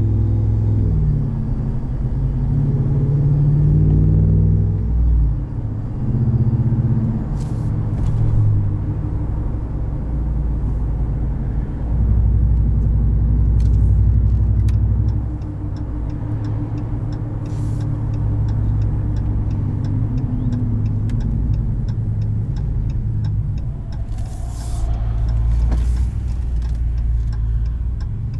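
2020 Ram 1500 Rebel pickup with a Carven aftermarket exhaust running under way, a deep exhaust rumble whose pitch rises and drops a few times as the truck accelerates and the transmission shifts.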